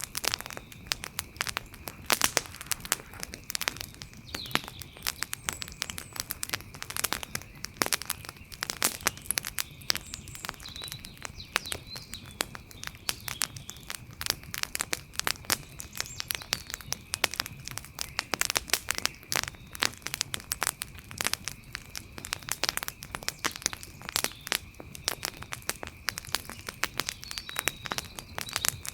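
Wood fire crackling: dense, irregular snaps and pops, several a second, some sharper and louder than others, over a faint steady high tone.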